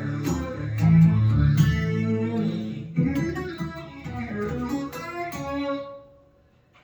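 Boss SY-200 guitar synthesizer's phased-strings preset, played from an electric guitar with the synth sound alone: sustained string-pad chords with several new attacks, dying away near the end.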